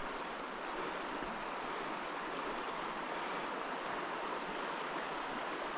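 Steady rushing of a small mountain stream, with a thin, high, steady hiss above it.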